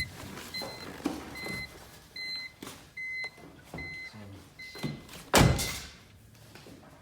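Short electronic warning beeps from the car repeat about once every three-quarters of a second, mixed with small knocks. About five seconds in there is a loud thump, and the beeping stops.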